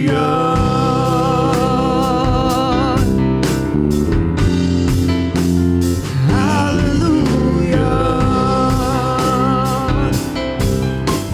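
Live gospel praise-and-worship music: a singer draws out a long "Hallelujah" with vibrato, then sings a second long phrase later on, over band accompaniment with a steady beat.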